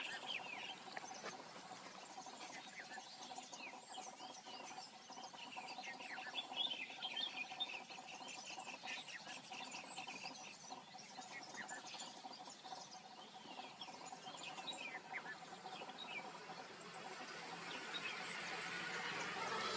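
Outdoor wetland and grassland chorus: many small birds give quick chirps over a steady, even drone of insects. A hissy rush of sound swells near the end.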